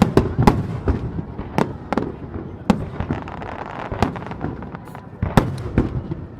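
Fireworks display: a rapid, irregular series of loud booms and sharp cracks from aerial shells bursting, over continuous crackling.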